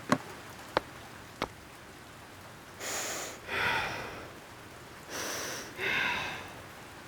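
Three short clicks in the first second and a half, then two rounds of a character sniffing in through the nose and breathing out.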